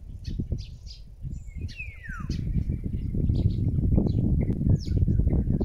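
Birds chirping, with one clear falling whistle about two seconds in, over a low gusty rumble that grows louder about three seconds in.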